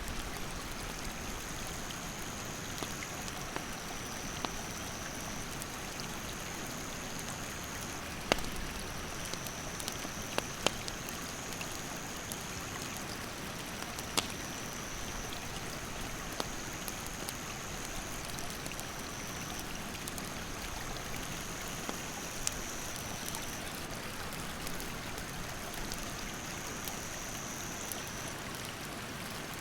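Mountain stream rushing steadily, with a wood campfire crackling and giving sharp pops, the loudest about eight seconds in and again around eleven and fourteen seconds. A high insect call sounds in stretches of two or three seconds, shifting slightly in pitch.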